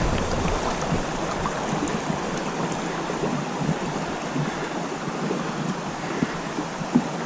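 River water rushing over shallow rapids around a kayak, a steady hiss, with a few light knocks and one sharper knock near the end.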